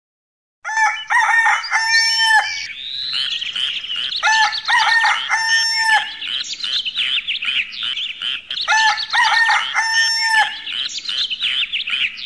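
Bird sounds: a call of several pitched notes, the last one held, repeats three times about four seconds apart over continuous twittering of small birds.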